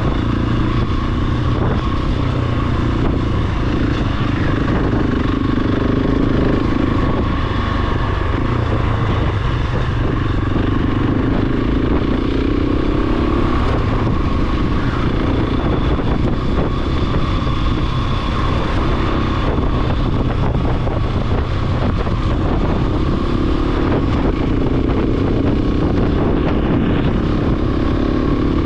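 Large single-cylinder dual-sport motorcycle engine running steadily under way, its note drifting slightly up and down, with wind and riding noise.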